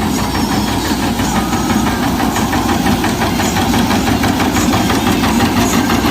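Sonalika Worldtrac 60 RX tractor's diesel engine running steadily at idle with an even knock.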